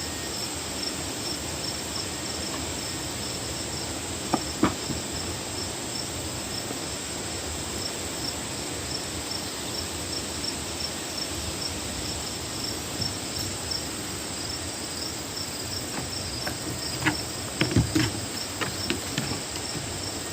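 Crickets chirping steadily in a fast, even pulse throughout. A few soft knocks and taps sound about four seconds in and again in a cluster near the end.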